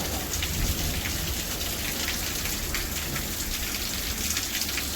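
Steady heavy rain falling, with scattered sharp drop ticks over a low background rumble.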